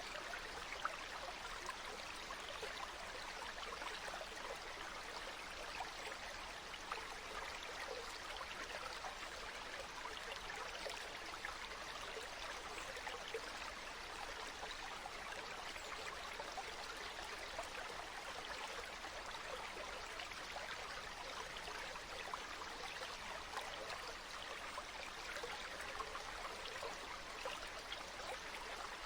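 Flowing water from a stream, a steady, even babble and trickle.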